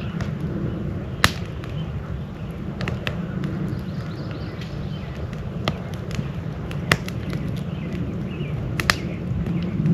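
Campfire burning with a steady low rush, broken by about half a dozen sharp, irregular pops and crackles of the burning wood.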